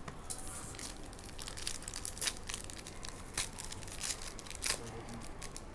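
Trading cards being handled and flicked through, crinkling, with a string of sharp clicks; the loudest come about two, three and a half, and nearly five seconds in.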